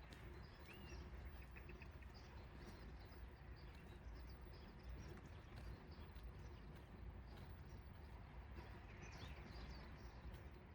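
Quiet outdoor morning ambience: a low steady hum of distant city traffic, with scattered short bird chirps throughout.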